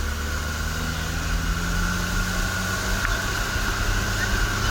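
UAZ off-road vehicle's engine running steadily as it drives, with a single light click about three seconds in.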